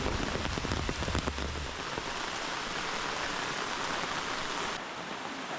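Steady monsoon rain falling on forest leaves, an even hiss with no single drops standing out. About five seconds in it turns slightly softer and duller.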